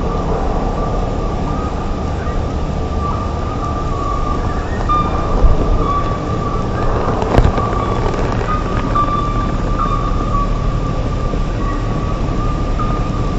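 Kawasaki Vulcan Nomad 1600's V-twin engine running steadily while riding, mixed with road and wind noise, with a steady whine. Two short knocks come about halfway through.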